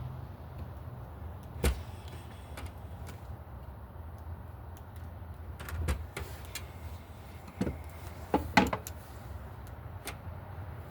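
Scattered sharp clicks and snips of a hand wire stripper cutting and pulling insulation off 14-gauge wire, about five in all with two close together near the end. Under them runs a low steady background rumble.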